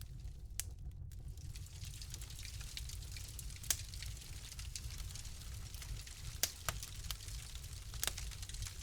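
Wood fire crackling in a fireplace: a steady low rumble and hiss, scattered with small irregular pops and a handful of louder snaps.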